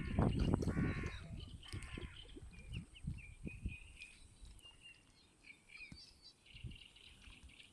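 Birds chirping with many short, high peeps over a low, uneven rumble, with a few fuller calls in the first two seconds.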